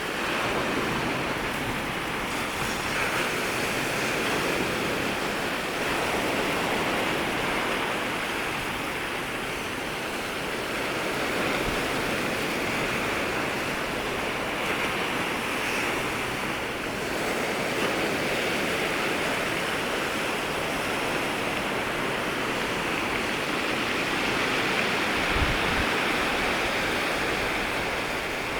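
Waves breaking and washing in at the water's edge, a continuous rush of surf that swells and eases every few seconds.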